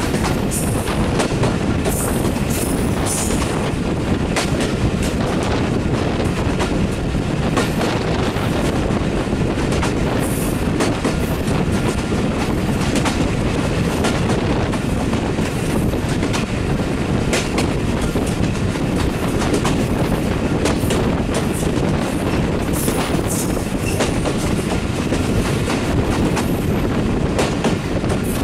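An old broad-gauge passenger coach running at speed, heard from its open window: a steady rumble of wheels on the rails with scattered irregular clicks and knocks over rail joints.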